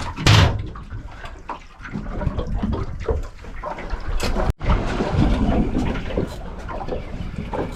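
Water sloshing and splashing, with scattered knocks and handling noise.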